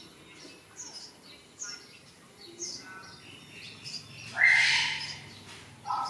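A small bird chirping repeatedly, a short high downward chirp about once a second, with fainter thin whimpers between. About four seconds in, a louder, rougher cry lasting under a second.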